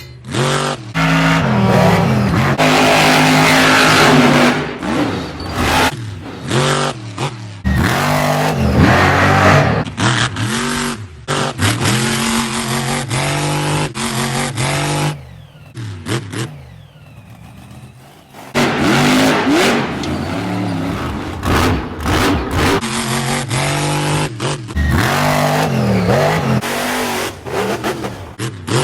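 Radio-controlled monster truck's motor revving up and down in short bursts, cut into many quick clips that change abruptly, with a quieter stretch about two-thirds of the way in.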